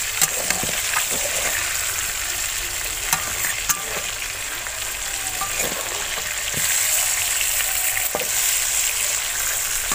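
Whole bitter gourds sizzling in hot oil in a kadai while a spatula turns them over, with a few short knocks and scrapes of the spatula against the pan. The sizzle grows a little louder about two-thirds of the way in.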